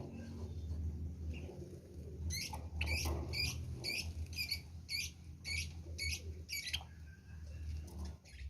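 Java sparrow calling: a run of about a dozen short, high chirps, two or three a second, starting about two seconds in and stopping near seven seconds, over a steady low hum.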